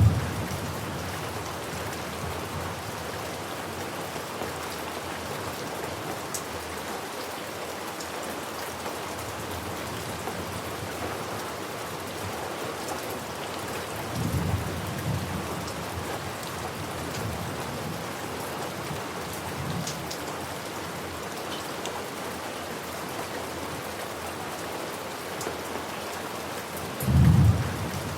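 Steady heavy rain with a few short, low rolls of thunder: one about halfway through, a faint one shortly after, and a louder one near the end.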